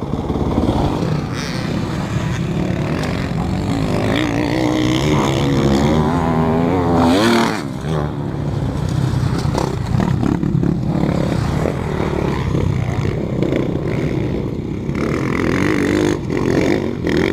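Dirt bike engine running and revving, its pitch wavering up and down, with a loud burst about halfway and scattered knocks and scrapes later on.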